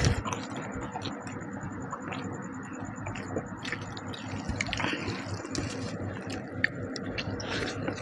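Wet squelching and small smacking clicks of someone eating rice mixed with fish curry by hand and chewing, with many small irregular ticks and no words.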